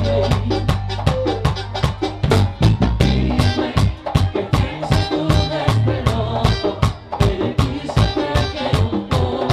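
Live bachata band playing, with a heavy bass line under a quick, steady percussion beat and no singing.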